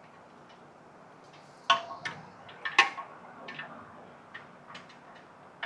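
Scattered light clicks and taps at uneven spacing, with a few louder, slightly ringing metallic clinks about two and three seconds in.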